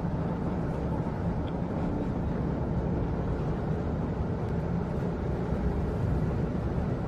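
Steady low rumble of a moving rail carriage, heard from inside.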